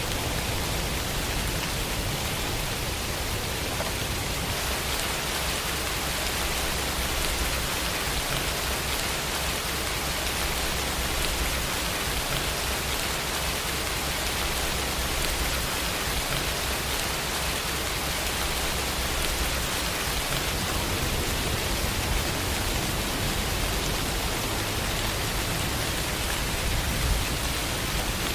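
Steady rain falling, an even, dense hiss, with a low rumble underneath that swells and eases.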